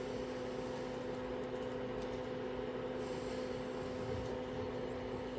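A steady machine hum, even and unchanging throughout.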